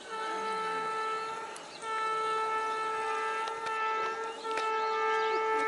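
Multi-tone air horn of an Indian Railways WAG-9H electric freight locomotive, sounded in long steady blasts. The horn starts thinner, swells louder with more notes about two seconds in, breaks off briefly near four and a half seconds, then sounds again. Faint bird chirps come through above it.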